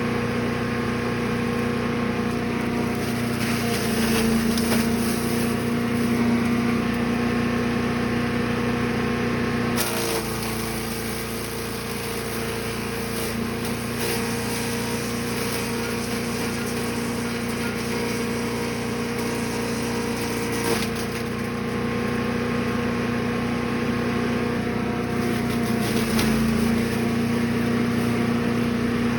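Gas-engine Brush Master chipper/shredder running steadily while chipping wood, with irregular crackling and splintering as pieces are fed through. The engine pitch dips briefly a couple of times under the load.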